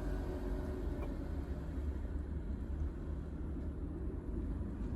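Steady low rumble of a car, with a faint even hiss above it.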